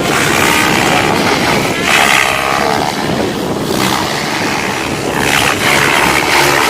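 SAB Goblin 700 electric RC helicopter flying, its rotor and brushless motor whining and swinging up and down in pitch as it manoeuvres, with wind buffeting the microphone.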